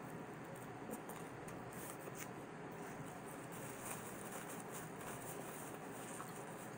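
Faint chewing of a mouthful of pizza, with a few soft crackles of a paper napkin being rubbed across the mouth, over a steady low hiss.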